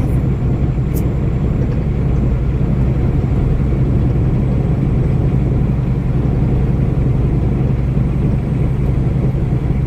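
Steady low rumble of a vehicle on the move, heard from inside the cab, with one short click about a second in.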